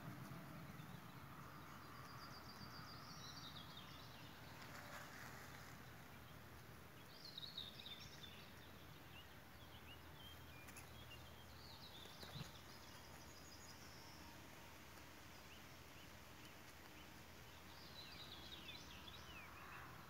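Quiet outdoor ambience with faint birdsong: small birds give scattered clusters of short, high chirps several times over a low steady background.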